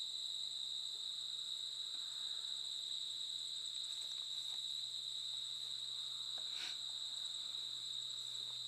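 Crickets trilling in one continuous, steady high-pitched tone, with a faint click about six and a half seconds in.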